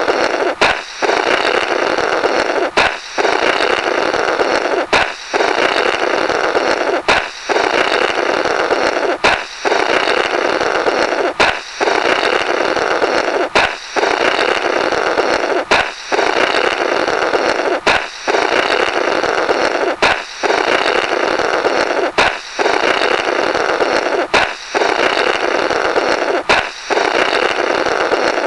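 A balloon popping, followed by a long sputtering blow through the burst rubber, the comic "blorrrt". The pop-and-blow repeats about every two seconds, each time with a short break before the next pop.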